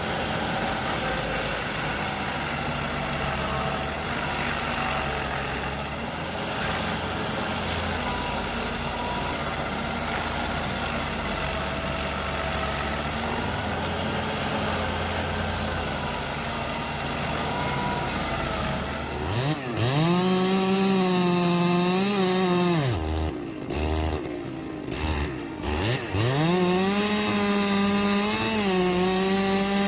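Machinery running steadily, then an engine revved high that drops off and comes back twice before holding at high revs.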